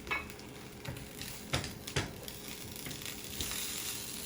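A few sharp clicks and knocks of a utensil against a sauté pan, the loudest about a second and a half and two seconds in, over broccoli sizzling faintly in garlic butter, the sizzle rising near the end.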